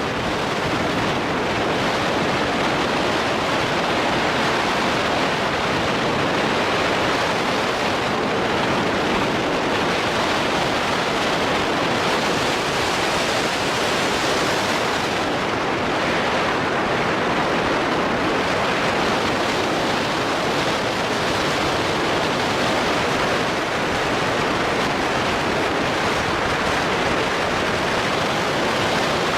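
Steady road and wind noise of a moving vehicle, an even rushing sound that holds level throughout.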